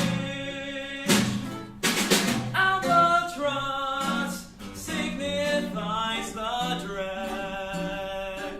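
Live music: sustained sung notes over a small ensemble, with sharp percussion strikes about a second in and again around two seconds in.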